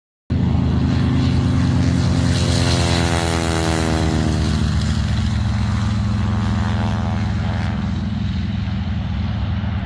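Aircraft engine noise starts abruptly about a quarter second in and runs as a steady, loud low drone. Over the first few seconds a set of higher tones slides down in pitch, as when an aircraft passes by.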